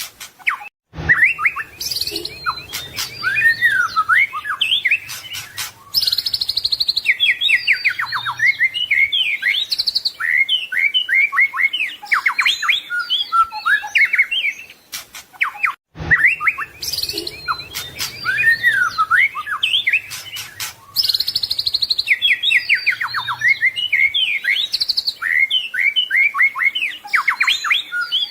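White-rumped shama singing a long, varied song of fast rising and falling whistles and trills, full of mimicked phrases. The recording drops out for a moment about a second in and again near sixteen seconds, then the same stretch of song repeats.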